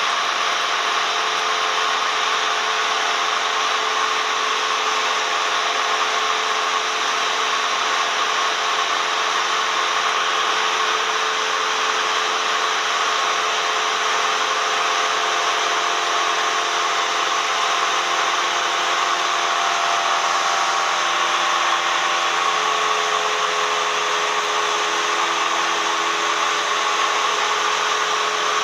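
Cessna 172M's four-cylinder Lycoming O-320 engine and propeller running steadily with rushing airflow, heard from inside the cabin as a loud, constant drone.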